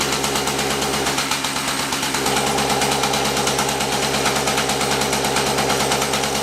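Extreme Scooter XG-550's small two-stroke engine running hard at full throttle, a rapid steady firing that gets a little louder about two seconds in. It is the engine running with the misfire the owner is showing.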